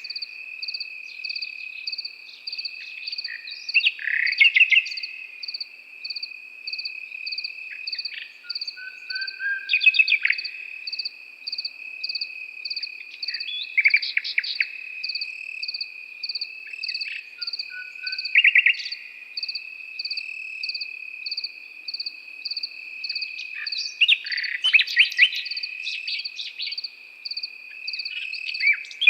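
Common nightingale singing short bursts of rapid notes every few seconds over a cricket chorus. The crickets make one continuous high trill and a second, higher chirping that pulses about twice a second.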